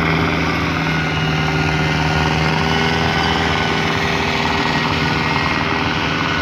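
Tractor-pull engine running loud at high, steady revs with an unchanging pitch.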